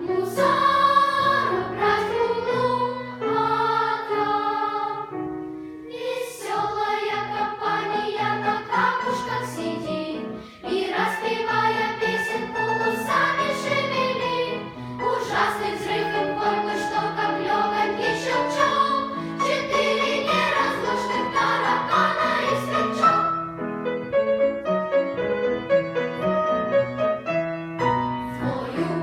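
Children's choir singing a lively song with accompaniment; the sound thins out near the end.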